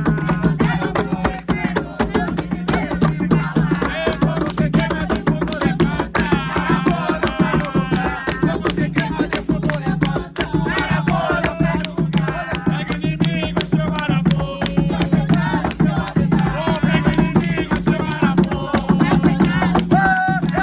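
Umbanda ponto for Exu: voices singing over a steady beat of atabaque hand drums.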